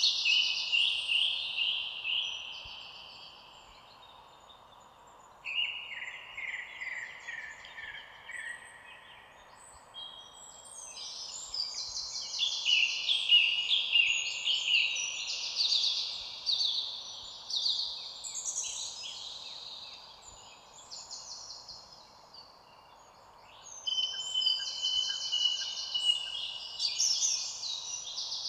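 Songbirds singing in bouts of fast trilled, descending phrases, several overlapping at once, with short lulls between bouts, over a faint steady background hiss.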